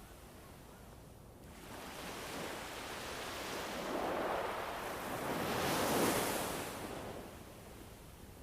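Ambient nature-soundscape bed: a low hiss that swells into a rush of noise a second or two in, peaks twice, then dies back down near the end.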